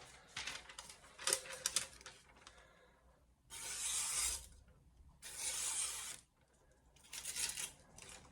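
A sheet of paper rustles and crinkles in the hand, and a freshly sharpened Santoku knife slices through it in two long strokes, each a smooth hiss of about a second. Then comes more crinkling of the paper. The edge is unstropped, straight off the soaking stone, and it cuts cleanly.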